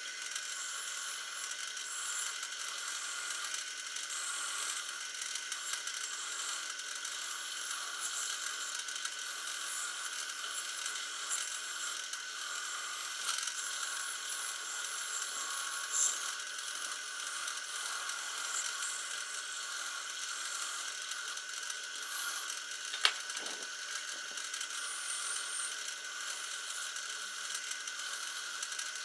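Steady mechanical whirring and rattling from workshop work, with one sharp click late on.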